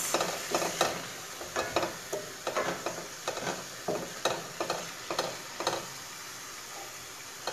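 Chopped onions and ginger-garlic paste sizzling steadily in oil in a stainless steel pan, with a wooden spatula stirring and scraping in short strokes, about two to three a second, that stop near six seconds in.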